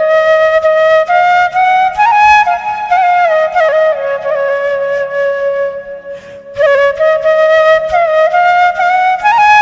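Flute music: a single melody of held notes moving up and down in small steps, pausing briefly a little after the middle before going on.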